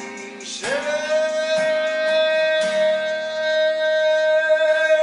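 Live music ending on one long held note, about four seconds, over a steady low drone.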